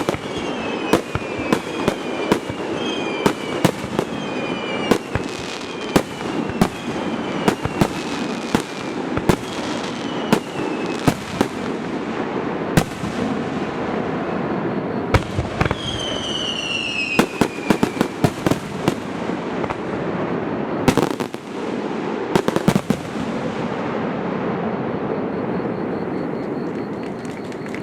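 Fireworks display: a rapid barrage of aerial shell bursts with many short whistles falling in pitch, over a continuous rumble of booms echoing off the surrounding mountains. The bursts thin out after about 23 s, leaving a rolling echo that fades.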